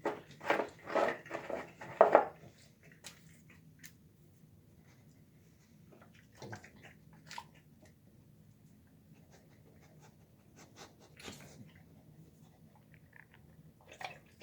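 A dog chewing and crunching its food, chicken on the bone among it: a loud run of crunches over the first couple of seconds, then scattered quieter chews and mouth smacks.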